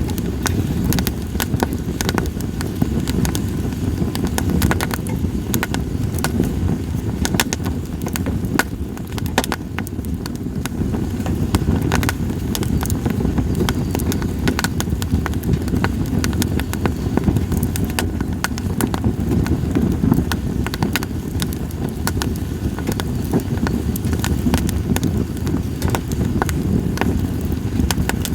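Split sawtooth oak (kunugi) firewood burning in a campfire, crackling with many sharp, irregular pops over a steady low rumble.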